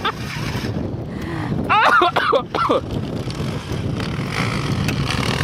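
Enduro motorcycle engine running at low revs as the bike is ridden slowly over a tyre obstacle.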